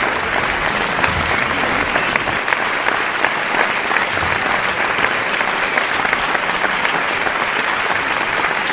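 Large crowd applauding: dense, steady clapping from many hands at a constant level, with no rise or fall.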